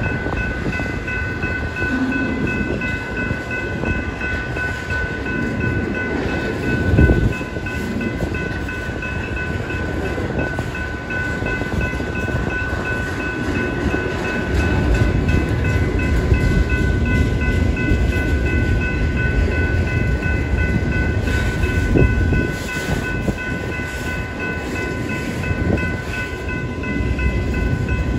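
Autorack freight cars rolling past over the rails, a steady low rumble of wheels with occasional clanks. A railroad crossing bell rings continuously over it.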